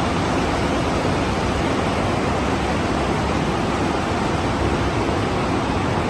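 Steady, even noise of hose-braiding production-line machinery running, with no distinct knocks or changes.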